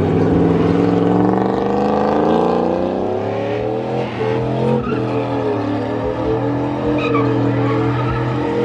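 Race truck's engine accelerating hard under full throttle, its pitch climbing steadily for about four seconds and then holding high.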